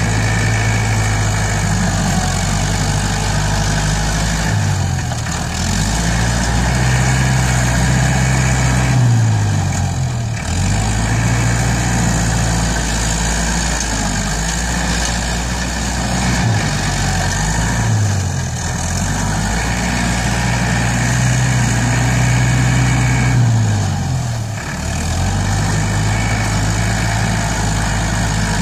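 Iseki NT554 tractor's diesel engine running, its pitch dipping and recovering about five times as it takes load while pushing soil and then eases off.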